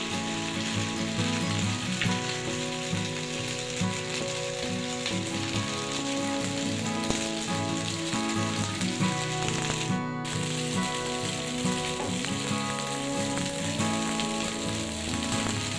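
Food sizzling as it fries in a pan, a steady hiss that briefly cuts out about ten seconds in, with background music playing underneath.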